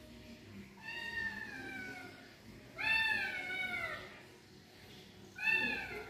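Kitten meowing three times, each meow sliding down in pitch; the middle one is the loudest and the last is shortest.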